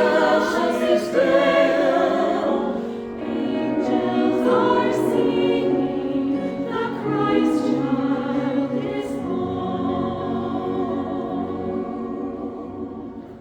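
A choir singing in harmony, closing on long held chords that die away near the end.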